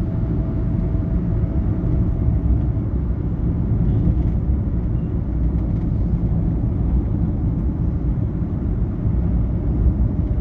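Steady low rumble of a moving vehicle heard from inside its cabin, with a faint steady hum that fades out about three seconds in.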